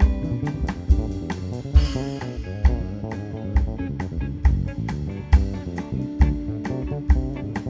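Instrumental band music played live: guitar over bass and drum kit, with regular drum hits and a cymbal crash about two seconds in.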